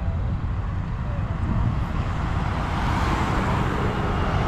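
A car driving past, its engine and tyre noise swelling to a peak about three to four seconds in, over a steady low rumble of engines.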